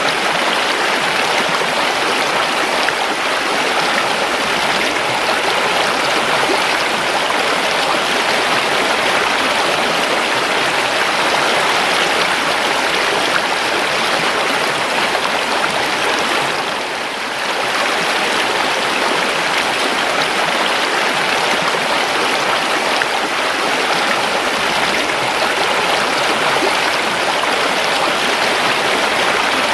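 River water flowing, a steady rushing babble that dips briefly a little past halfway.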